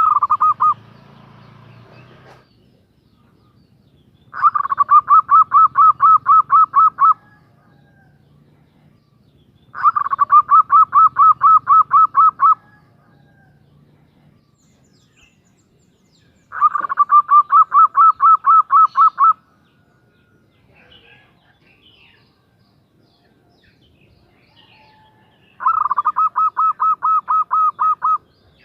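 Female zebra dove (perkutut) calling in quick series of evenly spaced cooing notes, about four a second, in bursts of about three seconds. There are four such bursts several seconds apart, plus the tail of one at the start. This is the call a hen uses to call a male.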